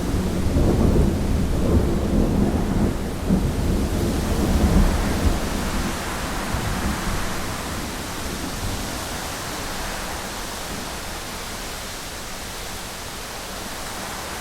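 Heavy rain against a window with a long rumble of thunder that fades out about halfway through, leaving the steady hiss of the rain.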